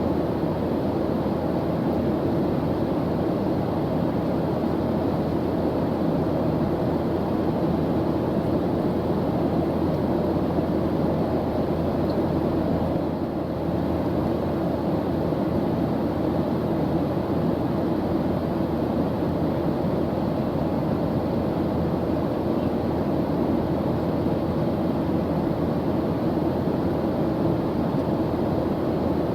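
Steady drone of an airplane engine in flight: even, unbroken noise weighted toward the low end.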